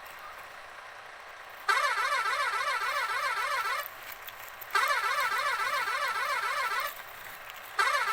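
Electronic warbling siren tone, rising and falling about five times a second, sounding in bursts of about two seconds with a second's pause between them: three bursts, the first after a faint hiss and the last starting near the end.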